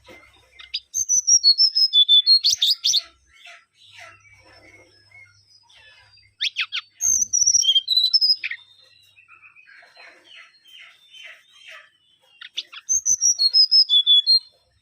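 Mangrove whistler singing: three loud phrases about five seconds apart, each a quick run of sharp whistled notes stepping down in pitch. Softer chattering calls come between the phrases.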